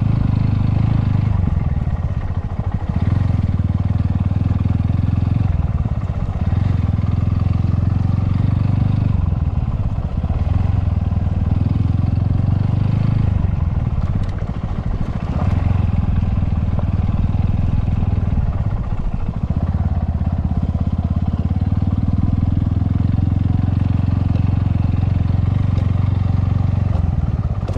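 Motorcycle engine running steadily under way, with wind rush; the low engine note drops away briefly several times and comes back.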